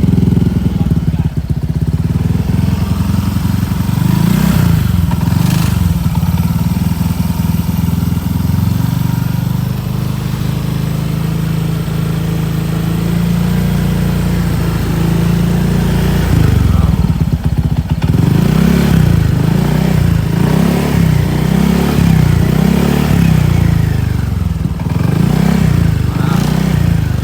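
Motorcycle engine idling through its exhaust, blipped a couple of times a few seconds in, then revved in a string of short throttle blips, about one a second, through the last third.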